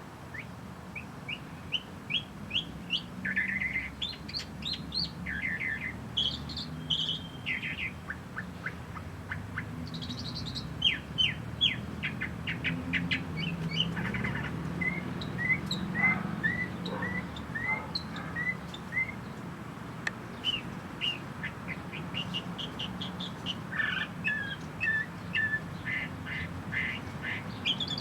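Small birds chirping and singing: many short, quick notes and trills, with a run of evenly repeated falling notes midway, over a low steady background rumble.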